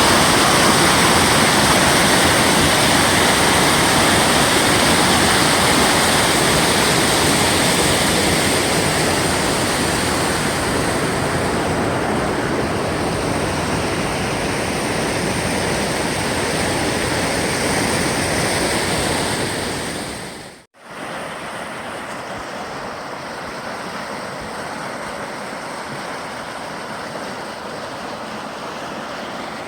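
Waterfall water rushing steadily. About two-thirds of the way through it breaks off for an instant, then carries on quieter and duller.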